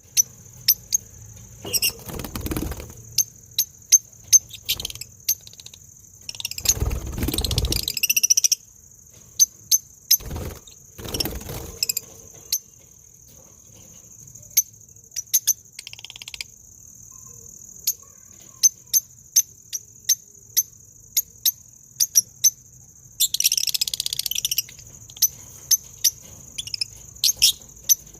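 Steady high-pitched insect drone with many short, sharp bird chirps repeated throughout, and four louder noisy bursts of a second or two each.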